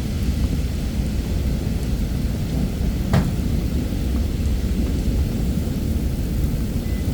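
Thunderstorm: heavy rain with a continuous low rumble of rolling thunder, and one sharp crack about three seconds in.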